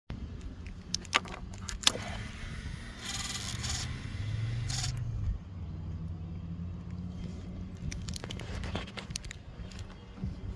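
Sharp clicks and scraping with a key-like jangle over a low steady hum, and a brief hiss about three seconds in. This is handling noise around the motorcycle, not yet the engine running.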